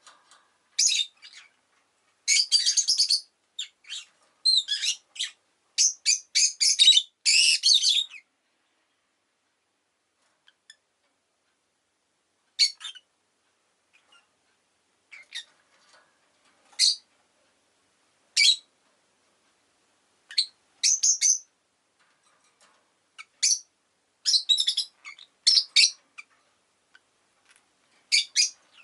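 Rosy-faced lovebird chirping in shrill, rapid bursts: a dense run of calls for the first several seconds, then scattered chirps and short runs with pauses between.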